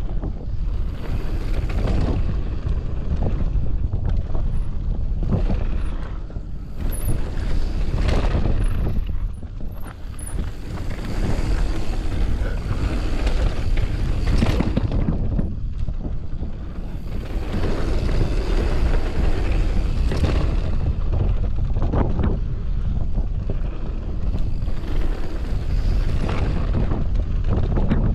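Wind buffeting the microphone at riding speed, with a mountain bike's tyres rolling over a dirt trail. Repeated knocks and rattles come as the bike hits bumps and landings.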